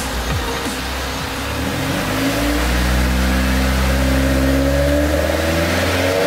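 Swapped-in Honda VTEC engine in a Civic EG, running near idle and then revved up slowly. Its pitch rises steadily from about two seconds in as the revs climb from about 1,000 to about 2,800 rpm.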